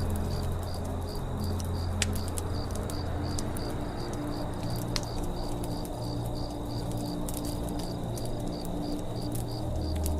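Campfire crackling with occasional sharp pops, the strongest about two and five seconds in, over crickets chirping steadily about three times a second. Held low tones that shift slowly in pitch sit underneath, a soft music pad.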